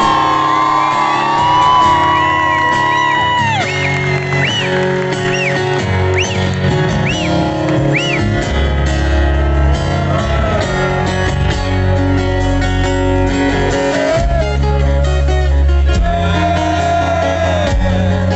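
Rock music with a guitar lead: long held notes and a run of repeated bent notes in the first half, over steady bass and a band.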